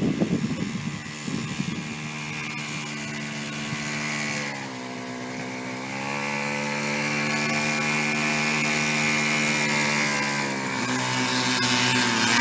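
Small 49cc two-stroke engine of a kids' mini vehicle running steadily. There are uneven low bursts in the first second or so. The engine pitch dips about four seconds in, comes back up and holds, then drops again near the end.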